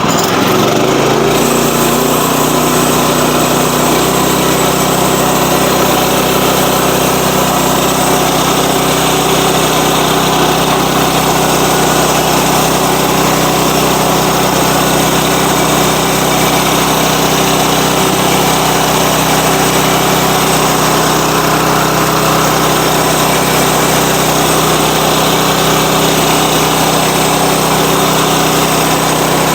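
Sawmill's small gasoline engine running steadily as the mill saws through a log, with a hiss that fills in about a second in.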